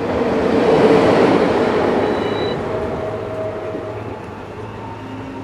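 Train running past: a loud rushing rumble swells to a peak about a second in, then slowly fades.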